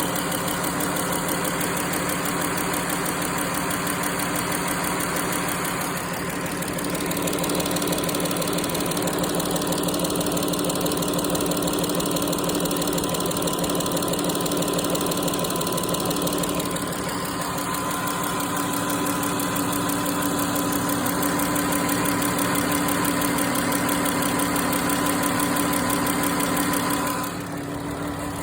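Chrysler Pentastar 3.6-litre V6 engine running steadily with a rapid, even ticking, an unexplained tick that the owner is asking others to diagnose.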